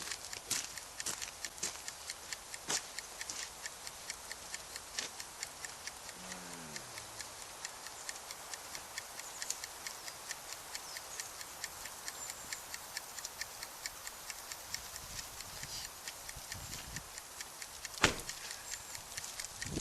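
Wood campfire crackling, with frequent irregular small pops and one sharp, much louder pop about eighteen seconds in.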